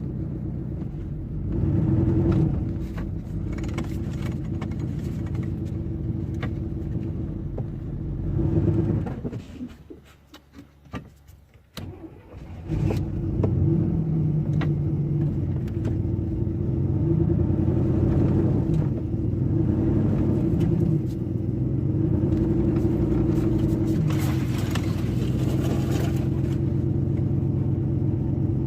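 Chevrolet Z71 pickup's V8 engine running, dying about nine seconds in, then restarting about three seconds later and running on with its revs rising and falling several times.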